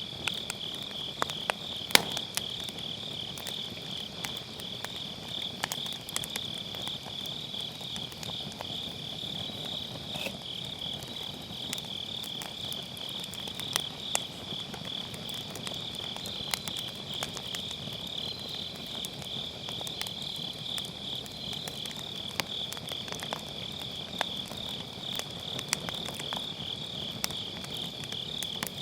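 Autumn night insects chirping in a steady, fast-pulsing trill, over a wood fire in a fire pit crackling and popping with scattered sharp snaps, one louder pop about two seconds in.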